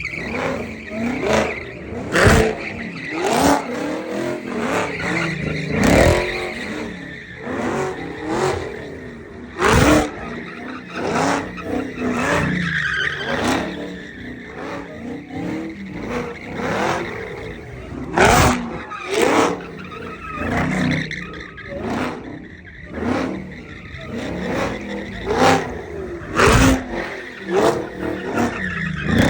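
Car engines revving with tires squealing during burnouts, broken by many sharp cracks and pops.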